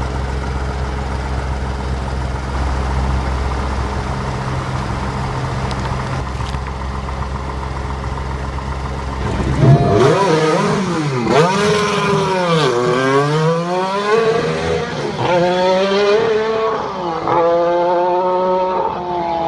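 A heavy engine idling steadily, then from about halfway a car engine revving up and down and accelerating through several gears, its pitch climbing and dropping back again and again.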